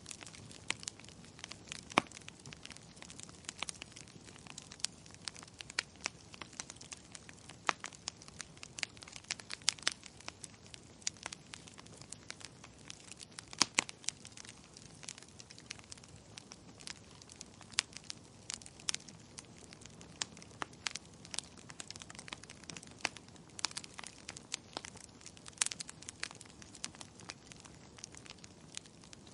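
Wood fire crackling in a fireplace: irregular sharp snaps and pops, a few of them louder, over a soft hiss.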